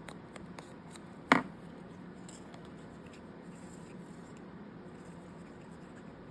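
Desk-top craft handling: a few light clicks and taps, then one sharp knock about a second in, from paper pieces and tools being handled and set down on the desk.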